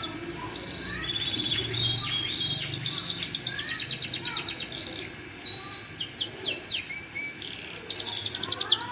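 Canary singing: long runs of fast repeated trilled notes, a few separate notes sweeping downward in pitch, and another fast, loud trill near the end.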